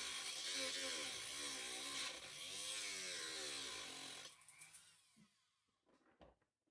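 Small handheld electric power tool running, its motor pitch rising and falling as it works against a stuck screw, then switched off about four seconds in and winding down, followed by a few light clicks.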